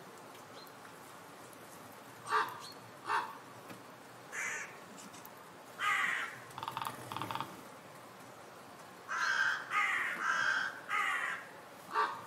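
Wild bird calls: short, harsh, caw-like calls in irregular bouts, with a quick rattling run partway through and a close series of calls near the end.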